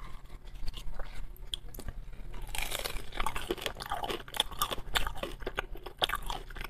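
Close-miked chewing of crisp pan-fried dumplings dipped in sour cream: a steady run of small crunches and mouth clicks.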